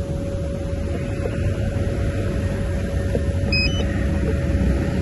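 Bulldozer diesel engine running steadily: a low rumble with a constant drone.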